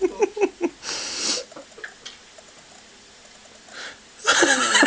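Cat yowling trails off in the first half second, a short breathy hiss follows about a second in, and after a lull a person bursts into laughter near the end.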